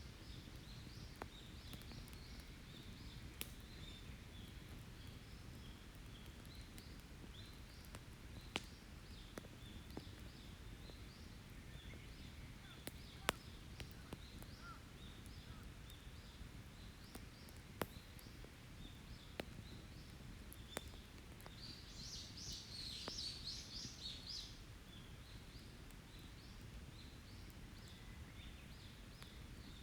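Open wood campfire crackling with scattered sharp pops over a low steady hiss, while forest birds keep up short repeated high chirps. A louder, busier burst of birdsong comes about two-thirds of the way through.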